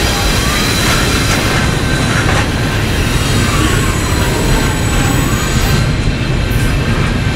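Freight train rolling past close by: a steady rumble of wheels on rail, with occasional sharp clicks and faint, wavering wheel squeal.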